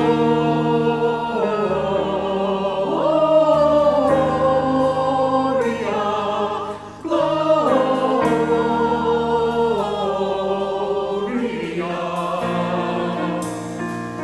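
Choir singing long held notes with vibrato over accompaniment, with a brief pause between phrases about seven seconds in.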